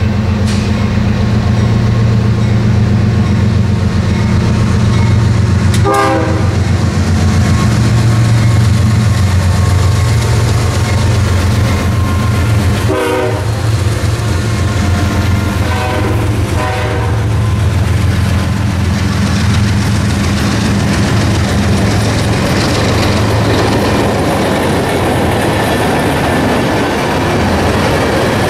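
Diesel freight locomotives led by a GE ES40DC passing close by under power, engines running with a steady low drone. Brief pitched horn-like blasts sound a few times in the first two-thirds. The freight cars then roll past with wheel clatter.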